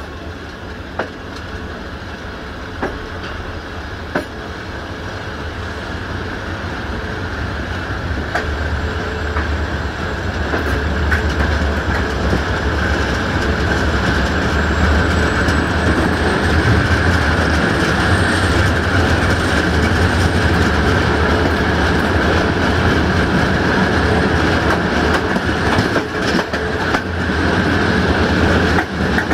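Train rolling along the rails, heard from an open window of a passenger carriage: the rumble and clickety-clack of the wheels grow louder over the first ten seconds or so as it gathers speed, then run on steadily, with a few sharp clicks early on.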